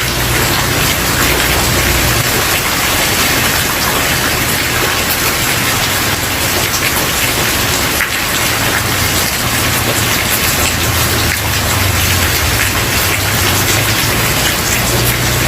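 Steady rain falling on a wooden porch, a dense, even patter of many small drops. A low rumble runs underneath, fading about two seconds in and swelling again in the second half.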